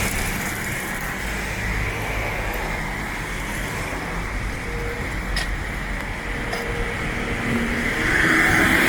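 Street traffic noise: a steady wash of passing vehicles. One fades away at the start and another approaches near the end.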